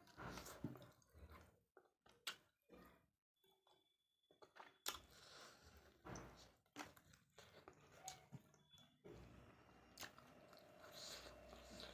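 A person chewing a mouthful of chicken and rice close to the microphone, with many short wet clicks from the mouth, and a brief pause about three seconds in.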